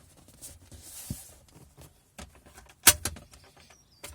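A few light knocks and one sharp clunk about three seconds in, from the car's interior fittings being handled and moved.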